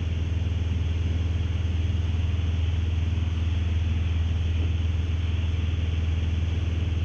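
Steady drone of a Mooney single-engine piston airplane's engine and propeller heard inside the cabin in flight, a constant low hum with no change in pitch.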